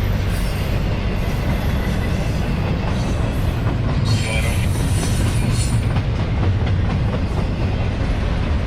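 CSX intermodal freight train rolling past: a steady, loud rumble of wheels on rail, with a brief higher wheel squeal about four seconds in.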